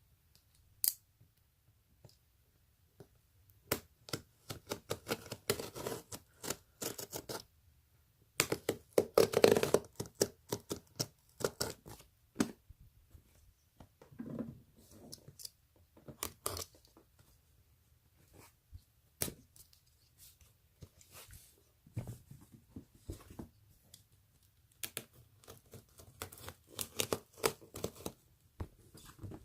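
A parcel being unboxed by hand: packaging being cut and torn open, with irregular scratching, tearing and clicking handling noises and a longer, louder stretch of tearing about nine seconds in.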